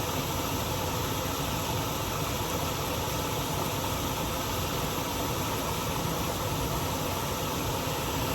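Steady rushing of a shallow mountain valley stream, an even, unbroken noise.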